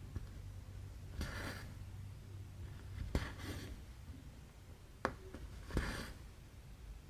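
Hand cross-stitching: a needle pricks through the stamped fabric with a short tick, and the thread is drawn through with a soft swish. This repeats about every two seconds.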